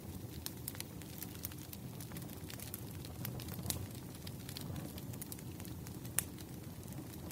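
Firewood burning: a steady low rumble of flames with irregular sharp crackles and pops, two louder pops about three and a half and six seconds in.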